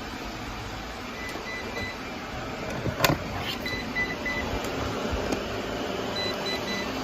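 Several robot vacuums running together with a steady whir, a sharp knock about three seconds in, and faint short beeps now and then.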